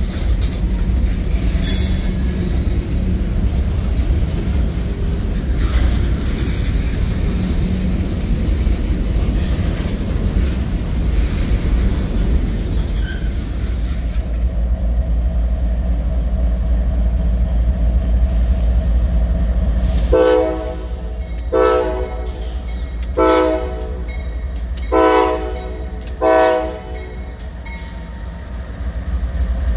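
Freight cars rolling past with a steady low rumble and occasional wheel clicks. Then a Norfolk Southern locomotive's air horn sounds five short blasts, about a second apart, as it comes through a grade crossing.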